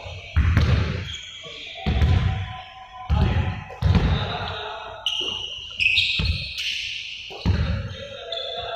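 Balls bouncing on a hard floor in a reverberant hall: irregular thuds about once a second. Short high squeaks come between the thuds.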